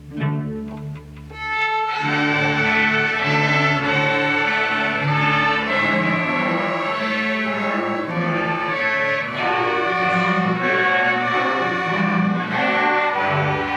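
A school string orchestra playing. Low strings sound alone at first, then the full ensemble comes in bowing about two seconds in, the violins holding long notes over the lower parts.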